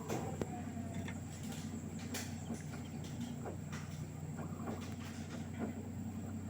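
LG direct-drive washing machine partway through a Cotton 60 °C wash, its drum turning with a steady low hum. Irregular small clicks and swishes come from the laundry and water tumbling inside.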